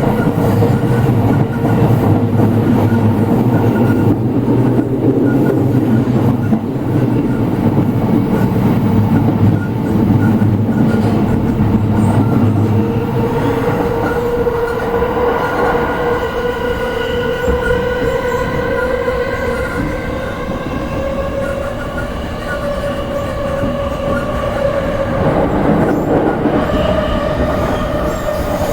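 Shonan-Shinjuku Line commuter train heard on board, running over long welded rail that has been ground: the wheels on the rail give a steady singing hum (rail-grinding noise), its pitch creeping slowly upward as the speed rises. A low rumble under it fades away about halfway through.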